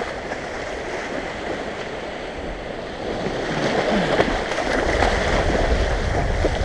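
Surf washing on the beach, with wind buffeting the microphone; the low wind rumble grows stronger about three seconds in.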